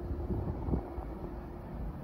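Low rumble of a distant approaching train, with wind on the microphone. A faint steady tone dies away about three-quarters of the way through.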